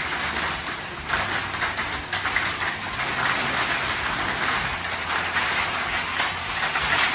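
Heavy rain falling: a dense, steady patter made of many small ticks.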